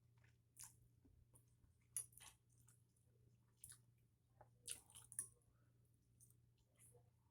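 A person chewing and eating close to the microphone: soft, scattered wet mouth clicks and smacks, a few a second at most, over a faint steady low hum.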